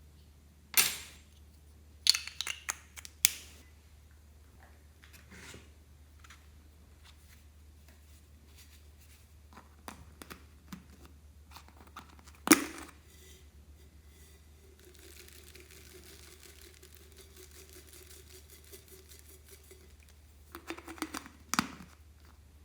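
Slime being handled: sharp, sticky pops and clicks in short clusters, with a softer hissing stretch for several seconds in the second half.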